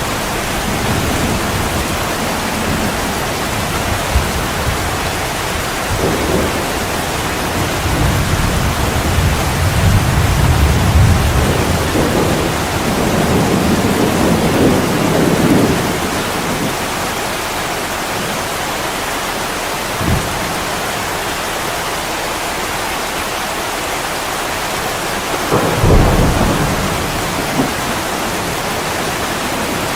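Steady heavy rain pouring against a window, with thunder rolling underneath: a long low rumble in the middle and two sharper claps, one about twenty seconds in and one near twenty-six seconds.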